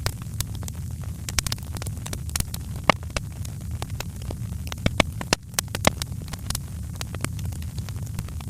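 Wood fire crackling: sharp, irregular pops and snaps over a steady low rumble, with a few louder pops near the middle.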